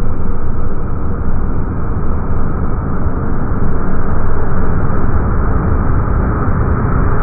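A JR Freight DF200 diesel-electric locomotive passing close with its container train, a steady dense rumble that is loudest as the locomotive draws level about four seconds in. The audio is slowed down with the slow-motion video.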